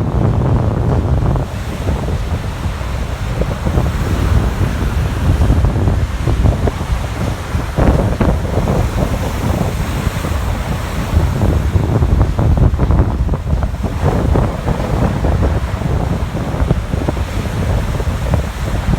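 Storm surf breaking and washing on a beach, with strong wind rumbling and buffeting the microphone throughout.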